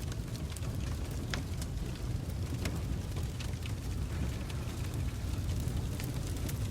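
Wood logs burning in a fireplace: a steady low rumble of the flames with irregular sharp crackles and pops.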